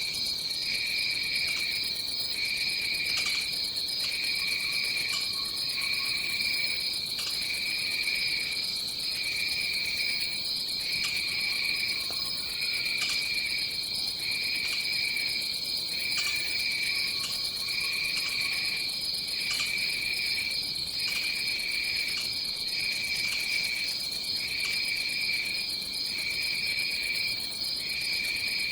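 Tropical forest insect chorus: a steady high trill with a lower trill that pulses on and off about once a second, and a faint lower call three times.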